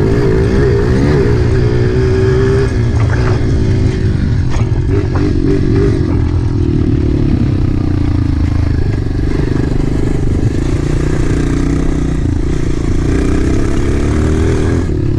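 Dirt bike engine running under the rider, its pitch rising and falling with the throttle in the first few seconds, then holding steadier. A few short knocks sound about three to five seconds in.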